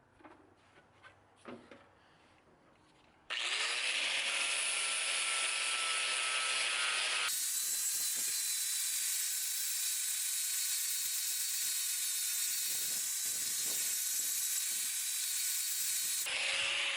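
A few light knocks, then about three seconds in an electric power tool starts, its motor heard spinning up, and runs steadily with a loud hissing, abrasive sound. The sound changes abruptly twice while it runs.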